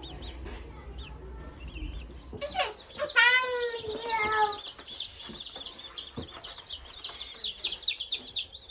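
A brood of baby chicks peeping: rapid, overlapping high chirps, many per second, growing busier about halfway through. About three seconds in, a drawn-out wordless human voice, falling in pitch for about a second and a half, is louder than the peeping.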